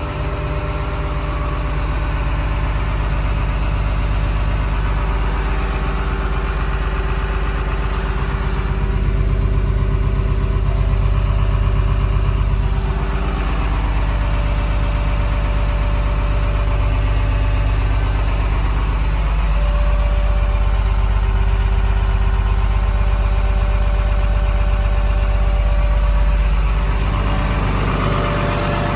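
Komatsu D61PXi-24 bulldozer's diesel engine running steadily, its tone shifting a little a few times.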